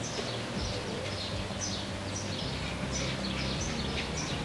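Birds chirping outdoors: many short chirps that fall in pitch, a couple each second, over a steady low background rumble.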